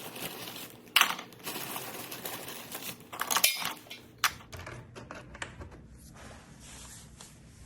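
Larger white gravel stones being set into a porcelain planter, clinking and clattering against one another and the planter. The louder clatters come about a second in and around three seconds in, then lighter clicks thin out.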